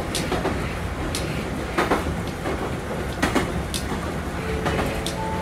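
Wakayama Electric Railway train running along the track, heard from inside the car: a steady low rumble with sharp wheel clicks over the rail joints every second or so. A steady hum comes in near the end.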